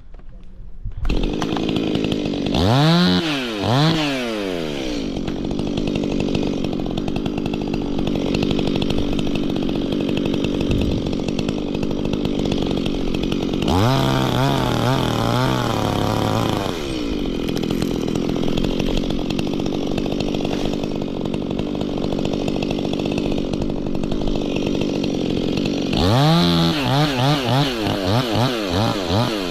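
Stihl two-stroke chainsaw running steadily, revved up and down a few seconds in, held at high revs for about three seconds around the middle, and blipped repeatedly near the end.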